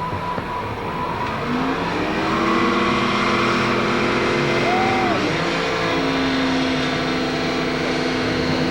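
Ford 302 small-block V8 revved up and held at high revs in a burnout, the tires spinning. The note climbs over the first couple of seconds, dips briefly about five seconds in, then holds steady.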